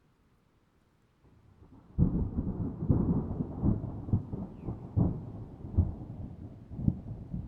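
Thunder in a rainstorm: a faint rumble builds about a second in, then breaks loudly about two seconds in and rolls on as a deep rumble with repeated sharp cracks.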